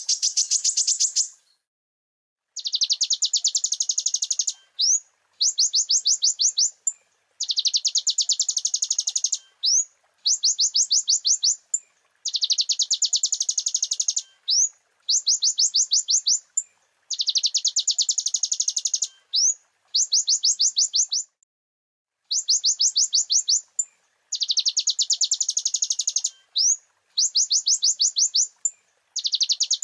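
Olive-backed sunbird (konin) singing: phrase after phrase of a very fast, high trill about two seconds long, each closed by one or two quick rising notes.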